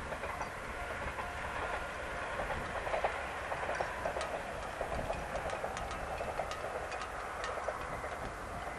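A KiHa 40-series diesel railcar running past at a distance: a steady running noise with its wheels clicking over the rail joints, and a scatter of sharp ticks in the middle.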